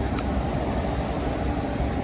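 Car engines running with a steady rumble.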